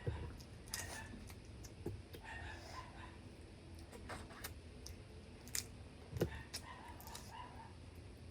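Mud crab being eaten: a string of irregular sharp cracks and clicks as the shell is broken and picked apart, with chewing between.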